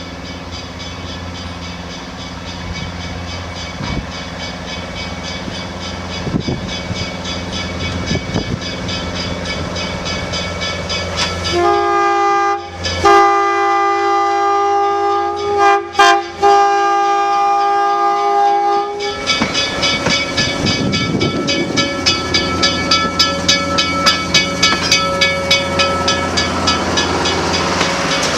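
Train running with a steady low rumble that slowly grows louder, then its whistle sounds a long chord of several notes for about seven seconds, broken briefly a few times. After the whistle comes a fast, even clatter.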